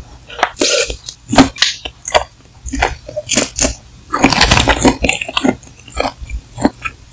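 Close-miked eating sounds: wet bites and chewing of a spicy mala snack, a quick run of short sharp mouth sounds, with a longer noisy burst about four seconds in.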